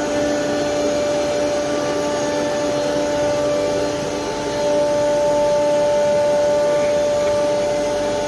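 Double-spindle ATC CNC router running: a steady whine from the spinning spindle over a rushing machine noise, getting a little louder about four and a half seconds in.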